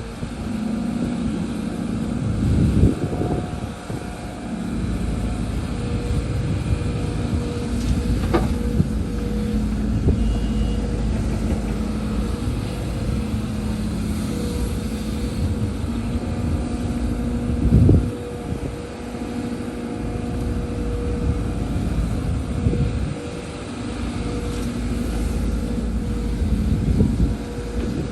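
Excavator diesel engine working under load, with a thin steady whine over it. Heavy low thuds come about three seconds in and again past the middle.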